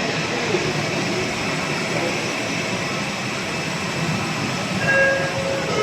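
Steady noise inside an Airbus A320 cabin with the jet engines running, and a short faint beep about five seconds in.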